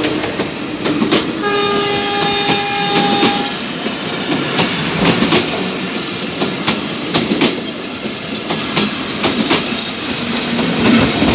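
Bangladesh Railway passenger coaches rushing past close by, a steady rumble with the wheels clacking over the rail joints. A train horn sounds once, for about two seconds, about a second and a half in.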